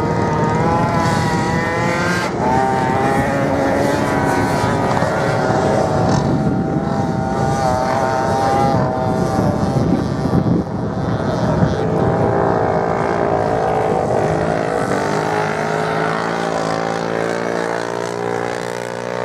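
Racing motorcycle engines on a sand track, several at once, revving with pitch rising and falling as they accelerate and change gear. A lower, steadier engine note comes in about three-quarters of the way through.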